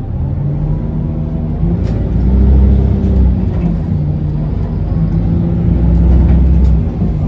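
Isuzu Erga city bus's four-cylinder diesel engine and drivetrain heard from inside the passenger cabin while the bus is under way, with two louder surges of pulling power, about two and five seconds in.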